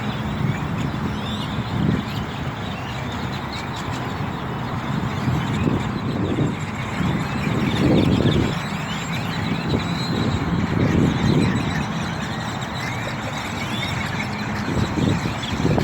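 A large flock of birds calling at once, many overlapping short chirps and squeaks, over a low rumble that swells and fades several times.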